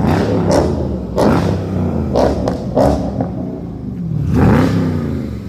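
Dodge Charger Scat Pack's 6.4-litre HEMI V8 through an MBRP Street cat-back exhaust, revved in a series of short throttle blips, about six, with the engine idling between them; the biggest rev comes near the end.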